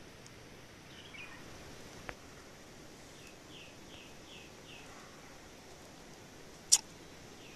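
Forest ambience: a bird calls a quick run of five short falling chirps a few seconds in, over a steady background hiss. A sharp click near the end is the loudest sound.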